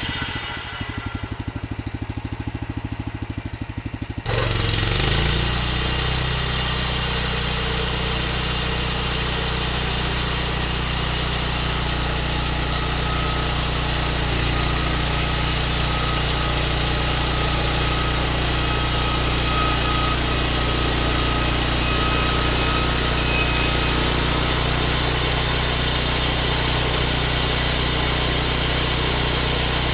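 Vallee Big Red band sawmill running steadily as its blade cuts through a log. About four seconds in the sound suddenly gets louder and fuller and then stays even.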